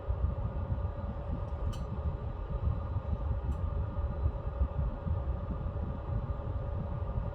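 Pellet stove running: a steady low rumble from the burn and its blowers, with a steady fan hum over it. Two faint clicks, about two and three and a half seconds in.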